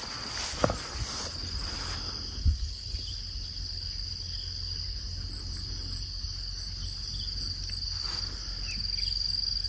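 Steady high-pitched drone of insects, such as crickets, with a second insect chirping in short, evenly spaced pips, about two a second, from about five seconds in. A few soft thumps in the first couple of seconds and a low rumble sit underneath.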